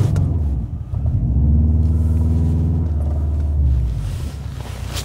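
Subaru Impreza WRX's 2-litre turbocharged flat-four engine pulling hard under acceleration, heard from inside the car as a loud low drone. It dips briefly about a second in, pulls strongly for about three seconds, then drops away near the end.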